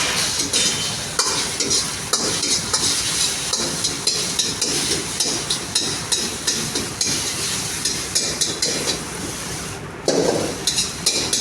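Food sizzling in a hot pan while a metal spatula stirs and scrapes it, with many short clinks and scrapes over the steady frying hiss.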